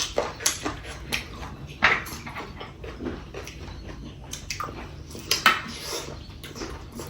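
Eating at the table: irregular clinks of a plate and dishes with short mouth smacks and chewing noises.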